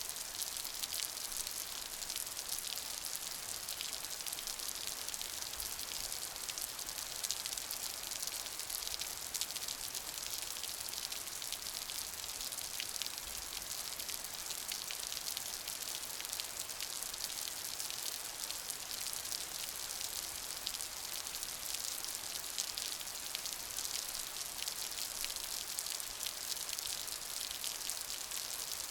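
Steady rain falling, a dense patter of many small drop hits with an even hiss and no let-up.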